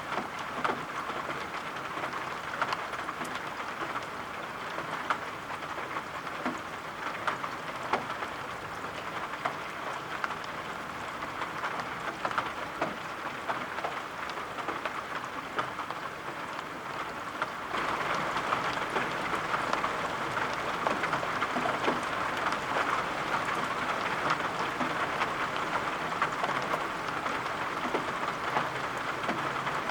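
Steady rain with many small drop taps, growing a little louder about two-thirds of the way through.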